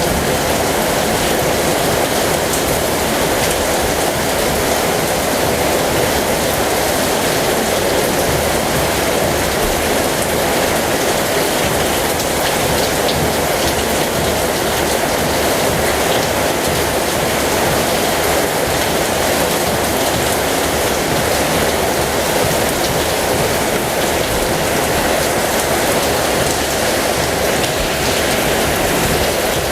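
Heavy rain falling steadily, a dense even patter of drops on surfaces with no break.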